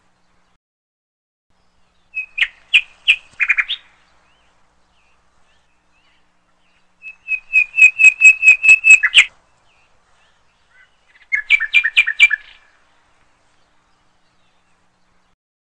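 Bird chirping in three short bursts of rapid, evenly repeated high notes. The middle burst is the longest and loudest.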